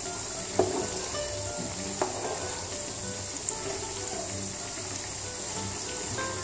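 Beef liver cubes deep-frying in a pan of hot oil, a steady sizzle. A few sharp clicks come as the metal skimmer stirs in the pan.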